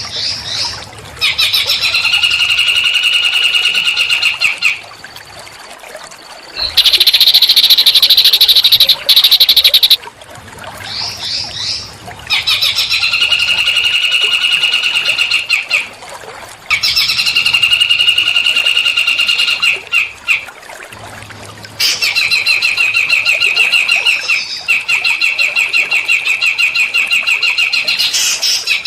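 Recorded song of a small songbird: long, rapid, high-pitched trills of a few seconds each, repeated after short pauses, with one louder, harsher buzzing phrase partway through.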